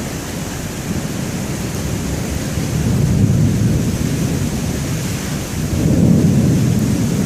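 Severe thunderstorm: heavy wind-driven rain with a continuous low rumble that swells about three seconds in and again around six seconds.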